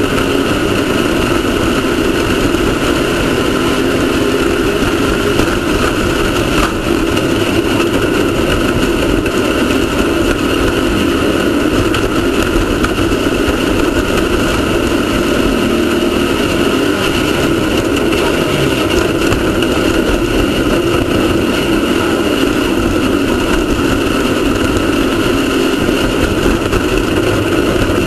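Off-road race car's engine running steadily, loud and unchanging in pitch throughout.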